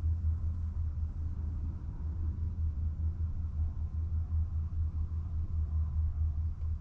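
The MK8 Volkswagen GTI's turbocharged four-cylinder engine idling: a steady low rumble with a fast, uneven pulse.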